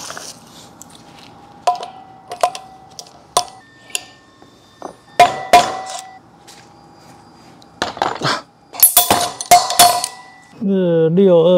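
Metal tools and parts clinking and striking with a short ringing tone, a few light clicks followed by louder clanks, while the worn front wheel bearing is being replaced.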